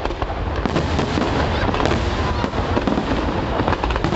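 Fireworks going off in a rapid, continuous crackle of many small sharp bangs over a low rumble.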